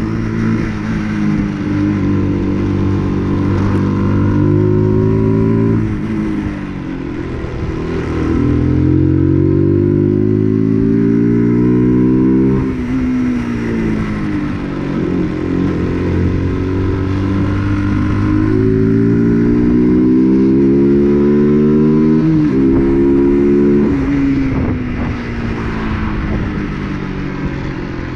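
UM RS 125 motorcycle's 125 cc single-cylinder engine revving, its pitch climbing steadily for several seconds and then dropping back quickly, about four times over, in the way of a bike pulling through the gears.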